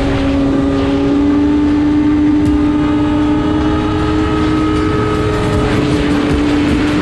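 Motorcycle engine held at high revs at speed, its pitch slowly rising as it keeps pulling toward top speed, over a steady rush of noise.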